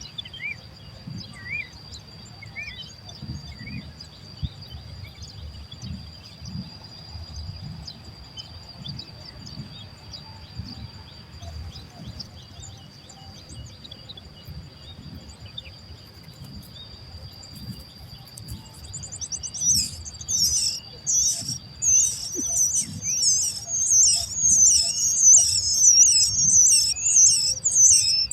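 Baby birds' begging calls: a few scattered chirps at first, then, about two-thirds of the way in, a loud, rapid run of high-pitched chirps, several a second, over a steady high whine.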